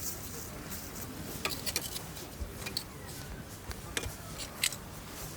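Wood campfire burning with a soft steady hiss and scattered sharp crackles and pops, a few seconds apart.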